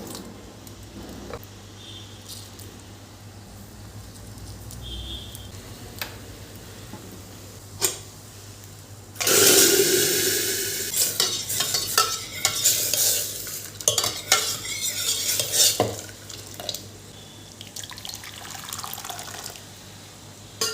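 Kitchen cooking sounds: a few light utensil clinks, then about nine seconds in a sudden loud sizzle as something goes into a hot pan, fading while a spoon stirs and clatters against the pan for several seconds.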